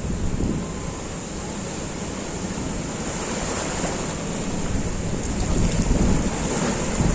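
Surf breaking on a beach, a steady wash of waves with a low rumble that builds a little after five seconds, mixed with wind buffeting the microphone.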